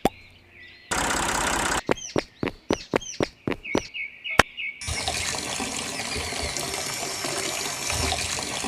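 Water spraying steadily from a small homemade water pump, starting about five seconds in, after a short burst of hiss and a run of sharp swishing clicks. Birds chirp in the background.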